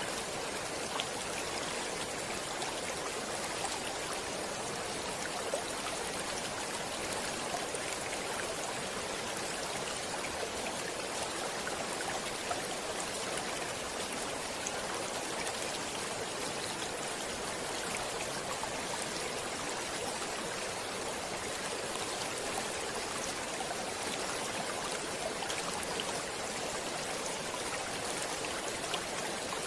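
Stream water flowing steadily, an even rushing with small splashes and drips now and then.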